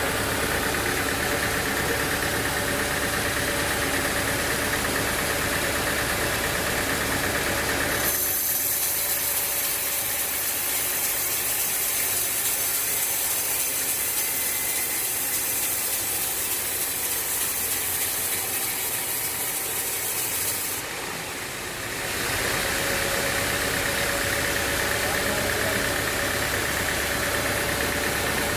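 Sawmill machinery running steadily. About eight seconds in, it switches abruptly to a loud high hiss with a thin high whine for about thirteen seconds, then the steady running sound returns.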